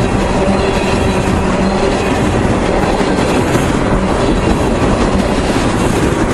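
Freight train of tank cars rolling past, steel wheels running on the rails in a loud, steady rolling noise.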